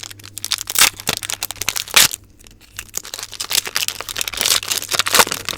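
Close-miked crinkling and crackling as Pokémon cards and their plastic and foil packaging are handled, with sharp snaps about a second in, at two seconds, and near the end.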